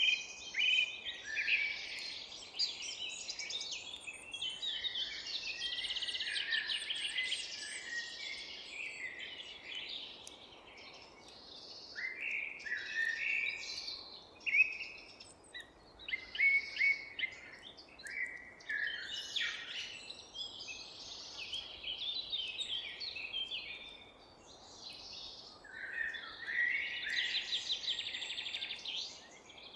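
Several songbirds singing and calling at once: overlapping chirps, short whistled phrases and rapid trills, over a faint steady low hiss of background noise.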